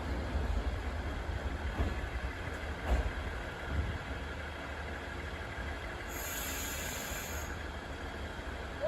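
Shinano Railway 115 series electric train standing at the platform: a steady low rumble with hiss from its equipment, and a brief high-pitched hiss about six seconds in.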